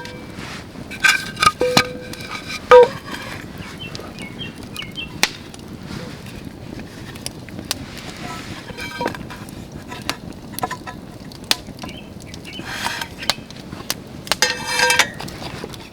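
Scattered clicks and knocks, a few with a short metallic ring. The loudest comes about three seconds in, and a quick cluster of rattling knocks follows near the end.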